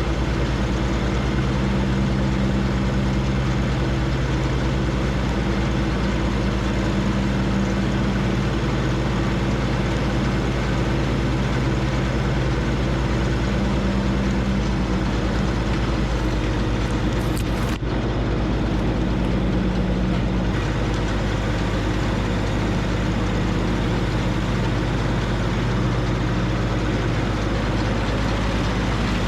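John Deere 1025R compact tractor's three-cylinder diesel engine running steadily at working speed, with a brief momentary break about two-thirds of the way through.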